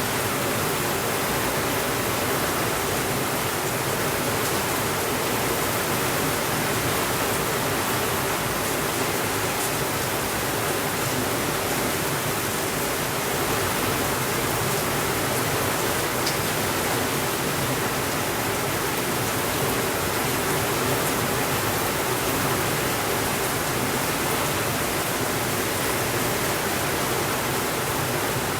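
Heavy rain falling steadily on a window: an even, unbroken hiss with a few faint ticks.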